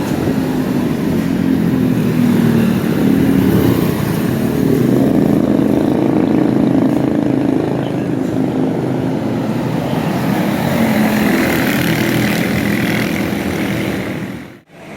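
Large diesel coach bus engine running loud and close, its pitch rising and falling a little as it moves. The sound drops out suddenly just before the end.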